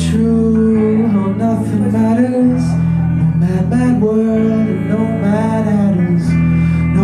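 Live band music: guitar over held low chords, with a wavering melody line on top and the chord changing twice.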